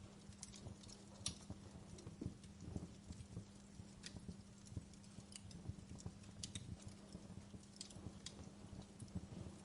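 Wood fire burning in a fireplace, crackling with irregular sharp snaps and pops over a low rumble.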